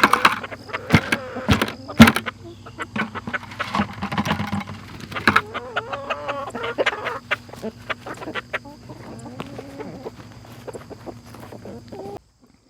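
Hens clucking and calling in short pitched notes, with many sharp clicks mixed in.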